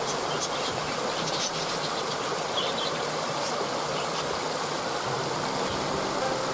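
Steady rush of a waterfall, with a few short high chirps in the first few seconds.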